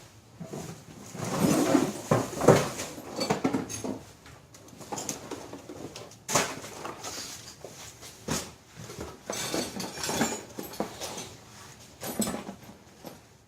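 Small metal parts, bolts and hardware, clattering and rattling as someone rummages through a box of them, in irregular bursts of clinks and knocks.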